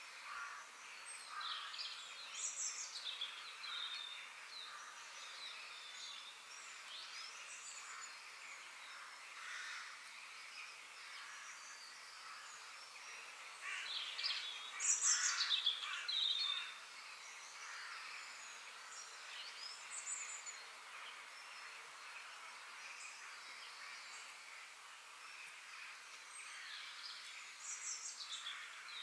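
Forest birds singing and chirping over a steady high background hiss, with several quick phrases that sweep down in pitch. The loudest burst of song comes about halfway through.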